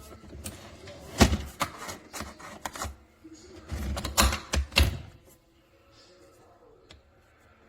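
A run of sharp clicks and knocks of something being handled, irregular and loudest in a cluster about four to five seconds in, then fading to a few faint ticks.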